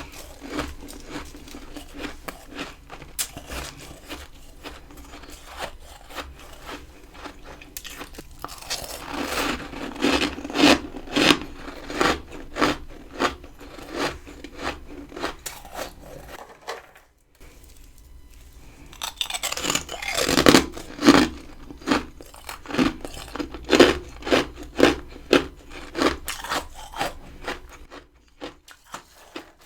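Close-up crunching of freezer frost ice being bitten and chewed, in two runs of loud, rapid crunches with quieter crunching between them.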